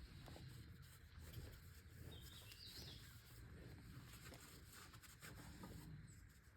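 Near silence: faint outdoor ambience, with a single short bird chirp about two seconds in.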